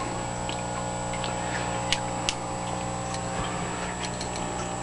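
Steady low electrical hum, with a few light ticks, two of them clearer about two seconds in.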